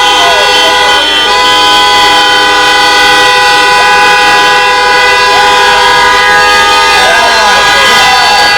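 Many horns sounding at once in long, steady held tones of different pitches, over shouting voices.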